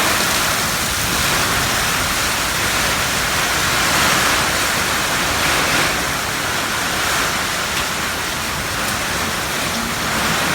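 Heavy storm rain falling in a steady, loud rush.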